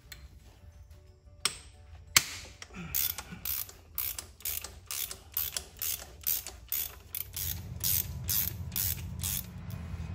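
Hand ratchet wrench clicking as it backs out the bolts of a tractor's brake housing, in quick repeated strokes of about three a second. There is one sharp click about two seconds in, and a low hum comes in near the end.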